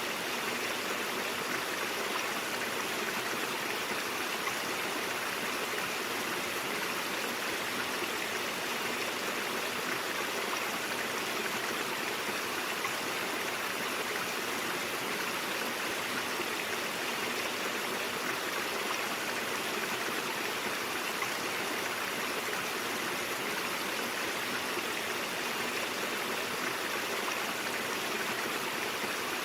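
Stream water flowing steadily over rocks, an even rushing and babbling with no breaks.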